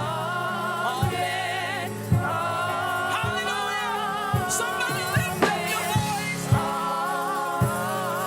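Gospel music: voices singing over a band, with a low drum hit about once a second.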